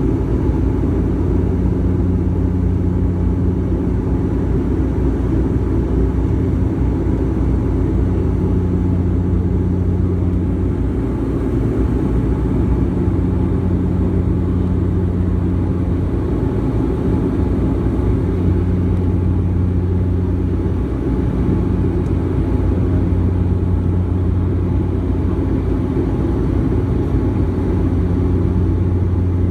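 Steady engine and airflow drone inside an airliner cabin during the climb after takeoff, with low hums that swell and fade every few seconds.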